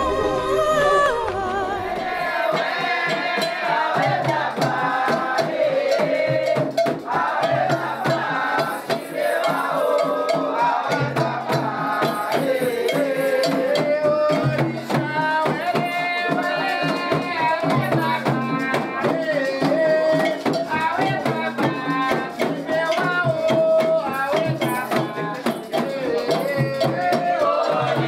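Afro-Brazilian devotional song: singing over shaken rattles and fast hand-drum strokes, continuing throughout.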